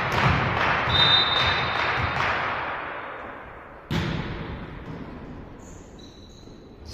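Indoor volleyball game sounds. Clapping and shouts after a rally die away, and a short, steady high whistle sounds about a second in. Just past halfway, one sharp hit of the ball rings through the hall.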